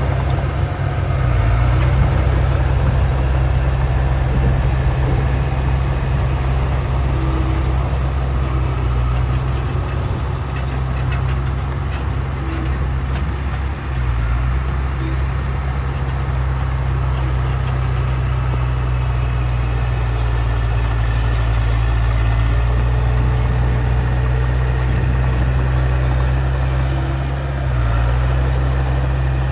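Heavy diesel engine of earthmoving machinery running steadily at work, with a deep drone and brief dips in load about a second in, midway and near the end.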